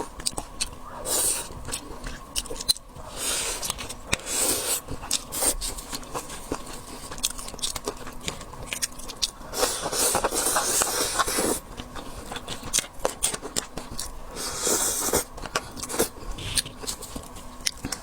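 Close-up eating sounds of seafood: biting, crunching and chewing, with many sharp clicks and scrapes. A longer scraping rustle comes around ten seconds in.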